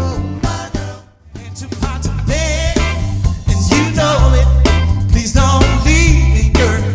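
Band music with a strong bass and beat. It drops out briefly about a second in, then comes back with a melodic lead line over the band.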